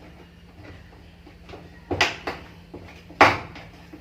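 A washing machine's plastic detergent dispenser drawer being handled and pulled out: a couple of knocks about two seconds in, then a louder clunk near the end.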